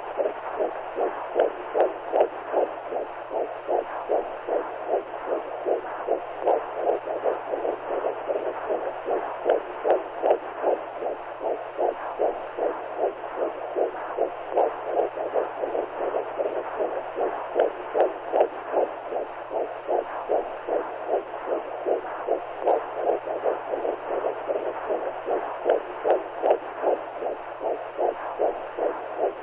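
Womb sound: a steady whooshing noise with an even, pulsing heartbeat rhythm, over a low steady hum.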